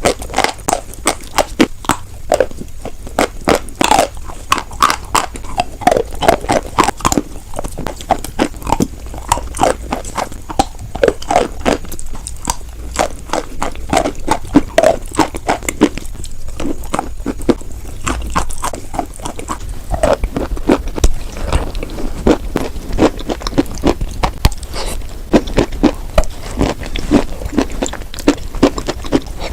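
Close-up crunching of white chalk being bitten and chewed, many sharp irregular cracks and crackles one after another.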